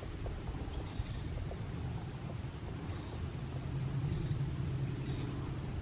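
Crickets singing in a steady, high, finely pulsed trill over a low, steady rumble, with a couple of brief high chirps about three and five seconds in.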